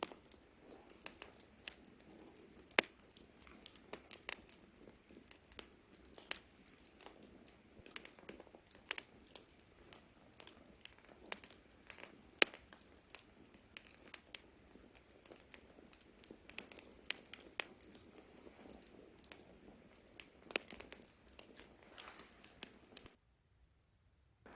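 Wood campfire crackling: irregular sharp pops and snaps of varying loudness over a soft steady rush of flame. The sound cuts out abruptly for about a second and a half near the end, then resumes.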